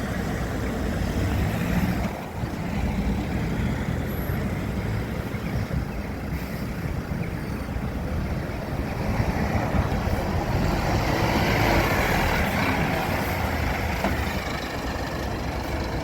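Queued buses and other road traffic running: a steady engine rumble that grows louder from about ten seconds in.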